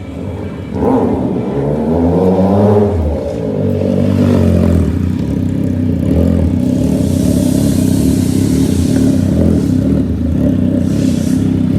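Triumph Trident 660's three-cylinder engine through a full aftermarket exhaust system, accelerating with rising pitch about a second in, easing off after about three seconds, then running steadily.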